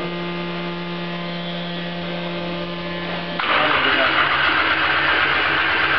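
A steady electrical hum, then about three and a half seconds in the Nissan SR20DET 'black top' turbocharged four-cylinder engine starts up and runs, much louder. This is the engine's first start after installation.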